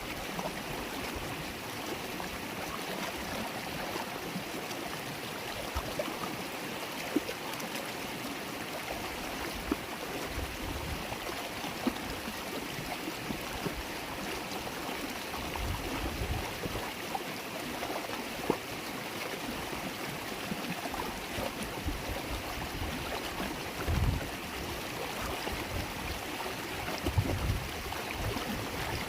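River water babbling and gurgling over stones in a steady flow, with occasional small splashes and a few low thumps.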